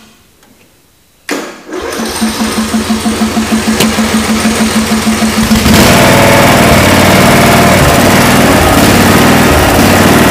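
Small mower engine on a cold start: its electric starter cranks it with a rapid even pulsing for about four seconds, then the engine catches a little over halfway through and runs steadily and loudly.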